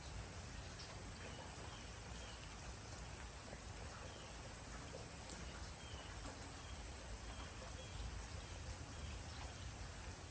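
Light rain falling: a faint, even patter with scattered drops ticking.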